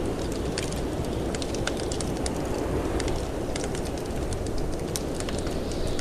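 Wood fire crackling, with many sharp irregular pops and snaps, over a steady low rush of wind.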